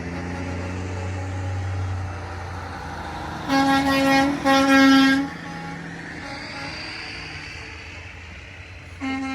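Trucks' diesel engines rumbling past, then two loud blasts of a truck air horn about a second each, back to back, and a short toot near the end.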